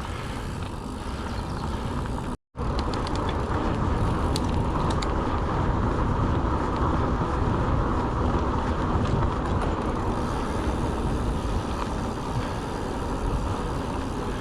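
Mountain bike riding along a track: steady tyre rolling noise with wind buffeting the microphone and a few light clicks. The sound cuts out completely for a moment a little over two seconds in.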